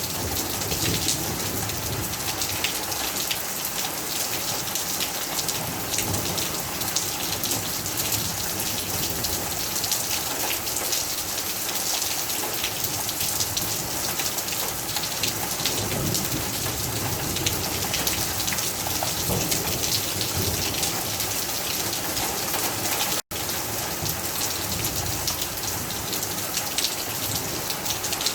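Heavy rain falling steadily, a dense patter of drops hitting surfaces, broken once by a split-second gap about three quarters of the way through.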